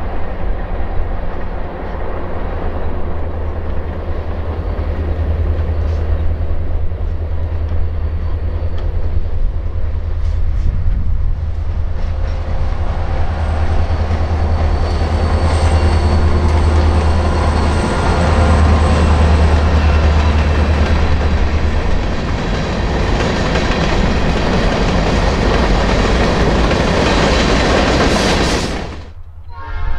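Diesel locomotives of a Montana Rail Link freight train approaching and passing, with a steady low engine drone. Then the hopper and tank cars roll by, their wheel clatter growing louder until the sound cuts off sharply near the end.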